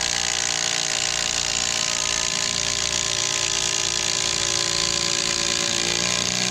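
Ridgid cordless impact driver hammering a long log screw into wood in one steady, continuous run; it seems to be slowing down as it gets hot but is still driving well.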